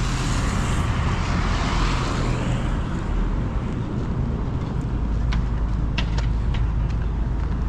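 Steady low rumble of a moving vehicle's engine and tyres on the road, with a louder rushing stretch in the first two seconds and a few light clicks near the end.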